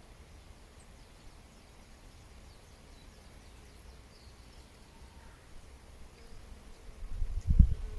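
Faint, distant bird chirps over a low outdoor rumble; about a second before the end, loud low thumps and rumbling, like wind buffeting or handling of the microphone, take over.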